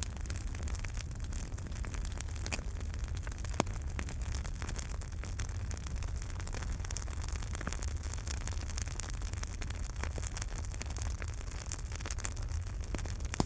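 Wood fire in a fireplace crackling, with many small pops over a steady low rumble and one sharper pop about three and a half seconds in.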